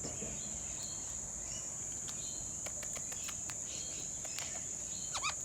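Steady high-pitched chirring of insects in the background, with a few faint clicks and a short rising call near the end.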